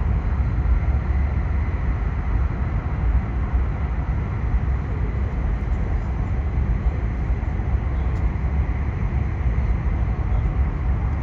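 Steady low rumble of a Hayabusa Shinkansen train running at speed, heard from inside the passenger car, with a faint steady high whine over it.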